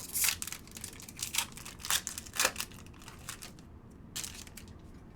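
Plastic wrapper of a trading card pack being torn open and crinkled, in a run of short crackles that are thickest in the first two seconds or so, with one more near the end.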